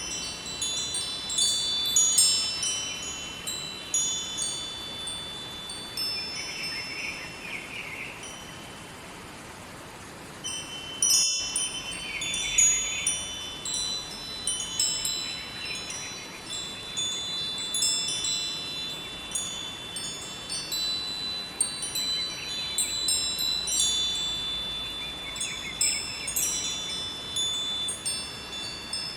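Metal wind chimes ringing continuously, many high overlapping notes struck and left to ring, thinning out briefly about eight seconds in before picking up again. Under them runs a steady hiss of flowing river water.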